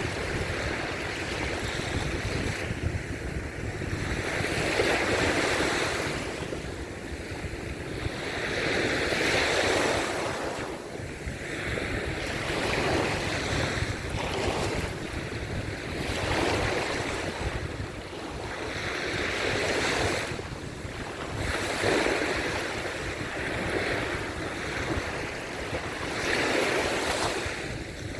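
Surf on a sandy beach: waves breaking and washing in, swelling every three to four seconds, with wind rumbling on the microphone.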